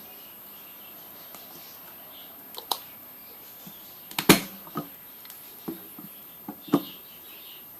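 A handful of short, sharp clicks and knocks at uneven intervals, the loudest a little after four seconds in, with faint bird chirps in the background.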